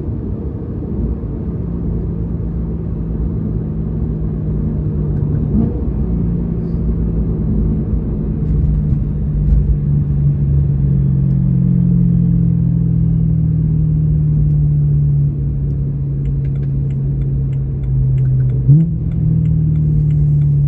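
BMW E92 M3's 4.0-litre V8 under way with its Valvetronics valved exhaust open, giving a deep, steady V8 rumble. The note breaks briefly about six seconds in and again near the end, and sinks slowly in pitch over the second half.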